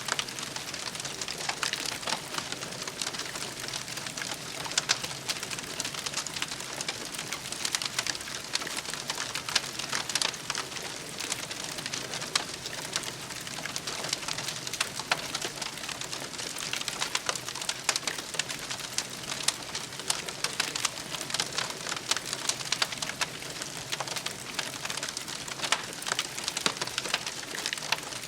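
Campfire crackling steadily: a continuous hiss of burning wood with dense, irregular small pops and snaps.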